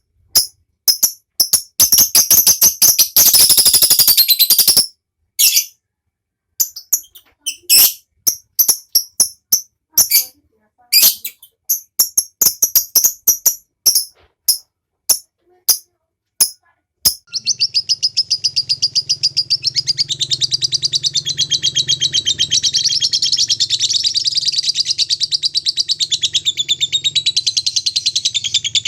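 A lovebird calling: sharp, separate chips in irregular bursts. About 17 s in, it breaks into one long, unbroken, very rapid chattering trill, the 'ngekek' song that lovebird keepers prize.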